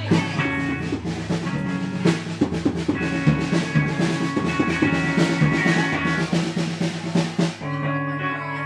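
Live rock band playing: a drum kit pounds away under sustained electric guitar and bass. About seven and a half seconds in, the drums drop out and the guitar chords ring on alone.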